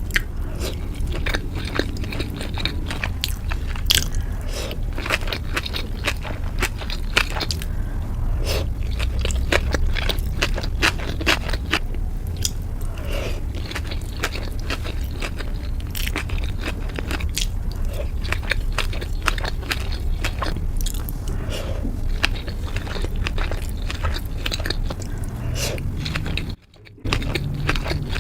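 Close-miked eating of sushi and sashimi: steady biting and chewing with many wet mouth clicks and smacks. The sound cuts out for about half a second near the end, then the chewing resumes.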